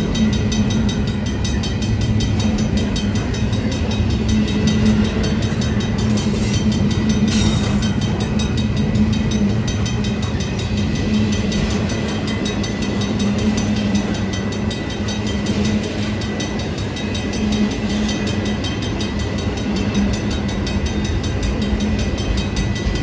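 Union Pacific train rolling steadily past a grade crossing: a continuous rumble of the passing cars with faint, evenly repeating wheel clatter.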